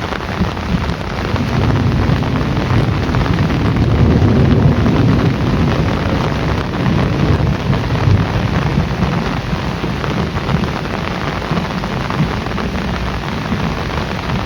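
Heavy rain falling steadily, with a low rumble of thunder that swells from about a second in and fades away after about nine seconds.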